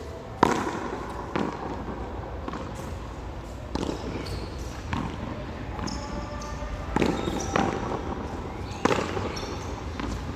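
Handball (frontón a mano) being played: a hard ball smacking off hands, the front wall and the floor in about seven sharp slaps at irregular intervals, the loudest about half a second in.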